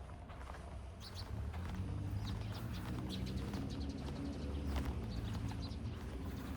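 Footsteps of a walker on pavement, a steady series of short clicks. Under them a low hum swells through the middle and eases off near the end, and a few short high chirps come through.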